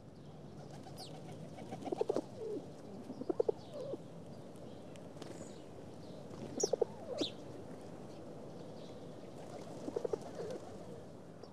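Birds calling: four short clusters of low, pulsing calls a few seconds apart, with a few higher chirps in between.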